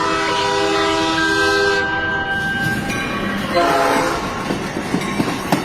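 Train horn sounding a long, steady multi-tone blast, then a shorter second blast, with a few sharp clicks near the end.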